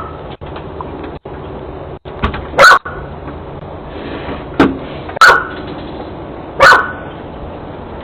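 A dog barking: four loud, short barks at irregular spacing, heard through a doorbell camera's microphone.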